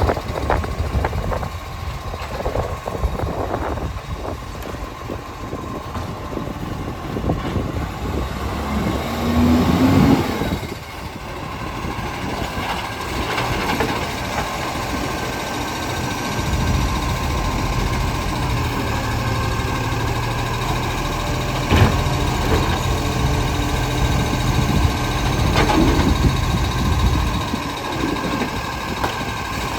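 Garbage truck engine running, with gusty wind buffeting the microphone through the first half. From about halfway the engine settles into a steady hum, with a single sharp knock a little later.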